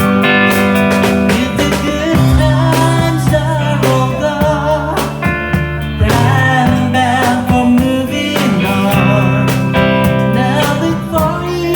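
A band playing a country-style song with guitars, a bass line, drums and a wavering melody line.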